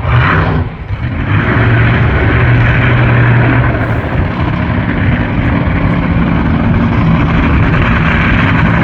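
Monster truck's V8 engine running loud and hard, dropping off briefly about a second in, then picking back up and holding steady.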